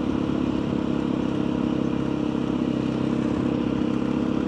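Motorcycle engine running at steady revs while riding, its pitch holding level.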